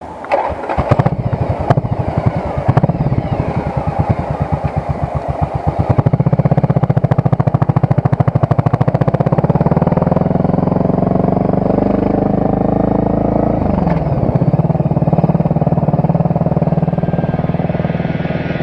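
Yamaha Virago V-twin motorcycle engine: a slow, lumpy pulsing with a few sharp knocks early on, then running faster with its pitch climbing for several seconds, a short dip in pitch about three-quarters through, and then steady running again.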